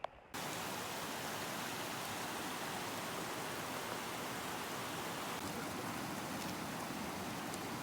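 Steady hiss of rain falling, cutting in abruptly just after the start and holding even throughout, with a few faint drop ticks.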